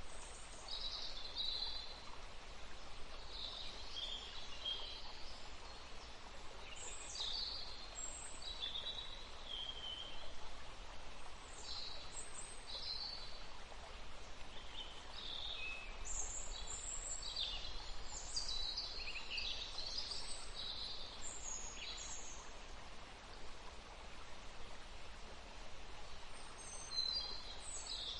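Wild birds singing and chirping in short, high phrases that come in bouts with brief lulls, over a steady background hiss.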